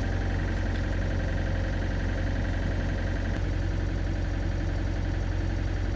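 Excavator's diesel engine idling steadily, an even low running sound with no change.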